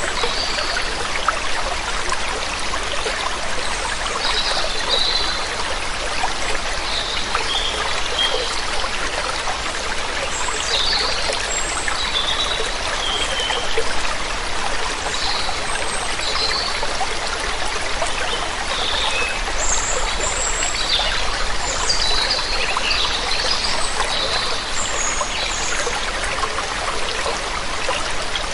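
Waterfall water running and splashing steadily, with small birds chirping in short calls on and off throughout.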